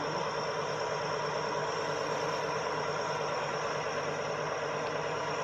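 Engine idling steadily, a constant low hum under an even rumble.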